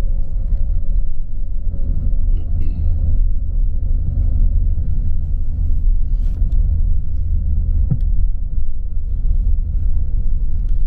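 Steady low rumble of a tour bus driving, heard from inside the cabin, with a faint steady hum over it and a single sharp click about eight seconds in.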